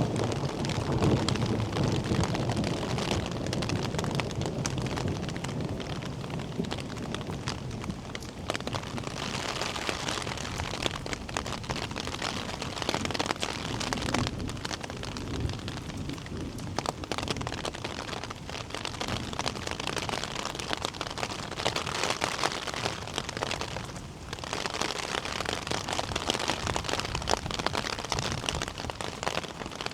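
Steady rain falling on hard ground, a continuous dense patter of drops. A low rumble rises under it during the first few seconds.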